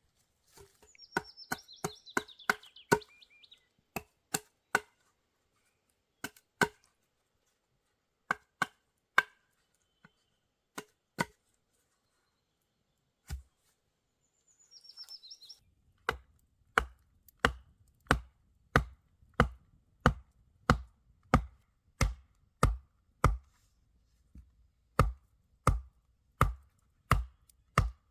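Repeated chopping blows with a blade, scattered and irregular at first, then a steady run of about two strikes a second through the second half. A bird chirps briefly about a second in and again midway.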